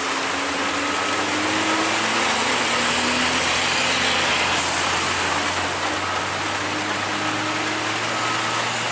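Heavy truck's diesel engine labouring up a steep grade, its pitch rising slightly over the first couple of seconds, under a steady hiss of rain.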